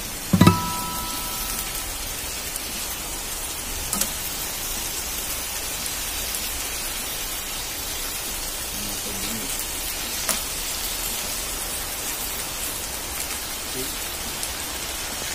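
Tofu and pork frying in a nonstick pan with a steady sizzle, with a short ring near the start and the metal tongs clicking against the pan a couple of times.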